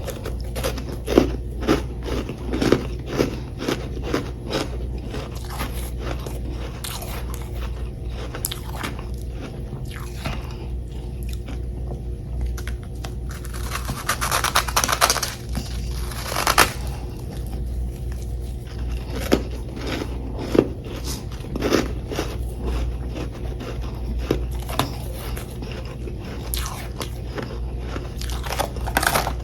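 Close-miked crunching and chewing of chunks of packed humidifier frost, a string of sharp crunches with heavier bites now and then and a longer dense crunch about halfway through.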